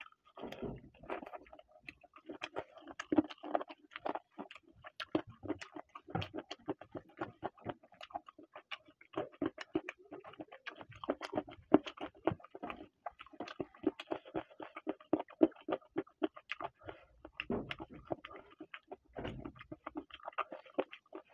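Close-miked wet chewing and lip-smacking of a person eating chicken curry and rice by hand: a dense, irregular run of short moist clicks and smacks, with brief pauses now and then.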